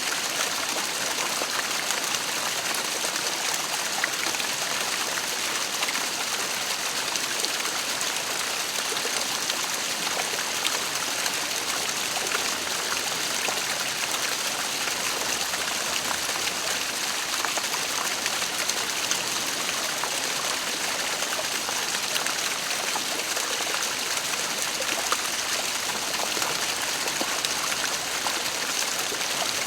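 Waterfall running: a steady, even rush of falling water with small splashes and trickles through it.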